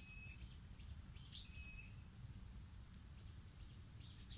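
Faint bird chirps, short and scattered, with a couple of brief thin whistles, over a low steady background rumble.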